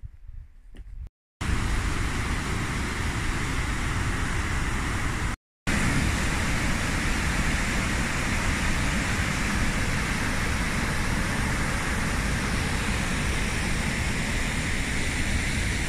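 Steady, loud rush of fast-flowing water, an even roar without rhythm, cut off by two brief silent gaps about a second in and about five seconds in.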